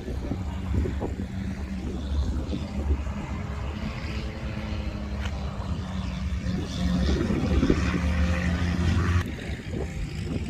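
A steady low mechanical drone, a little louder about seven seconds in, with wind noise on the microphone.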